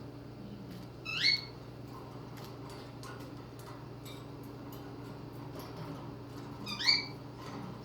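Young cockatiel giving two short rising whistled chirps, about six seconds apart, over a steady low hum.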